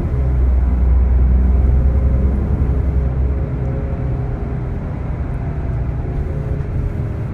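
Scania L94IB bus's diesel engine running under way, with a heavy low drone for the first three seconds or so, then easing off and running quieter.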